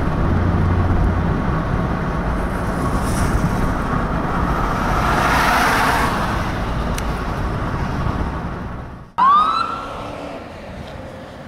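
A vehicle going by, its road noise building to a peak about five seconds in and then easing off. After an abrupt break comes a short, loud emergency-vehicle siren whoop that sweeps up in pitch and fades.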